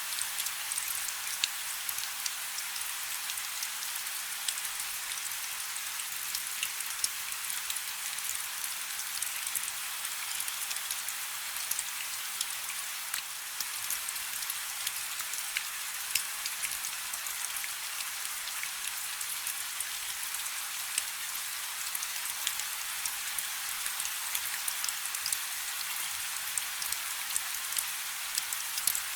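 Light rain falling steadily: an even hiss of many small drops, with scattered sharper drop ticks.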